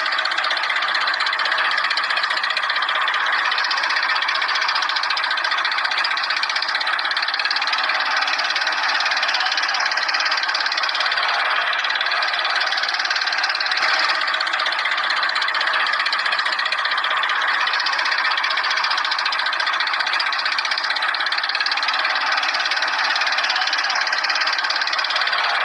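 A small motor running steadily with a knocking rattle, unchanging throughout.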